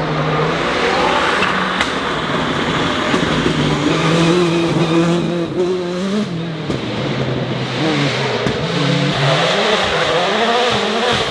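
Rally car engine running hard at high revs, its pitch climbing and dropping again and again through gear changes and lifts, over a steady hiss of tyres on gravel.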